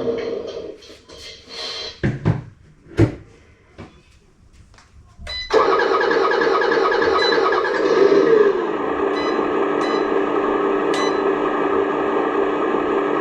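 Remote-control construction model's engine sound cuts out, a few knocks follow, then it starts up again suddenly about five seconds in. Its pitch glides down to a steady idle near the nine-second mark.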